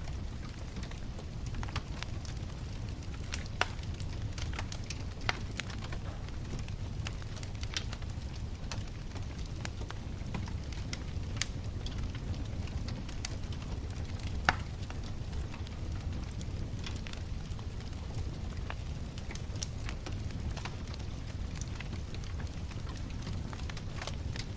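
Wood bonfire burning: a steady low rumble of flames with scattered crackles and sharp pops of the burning wood, the loudest pop about fourteen seconds in.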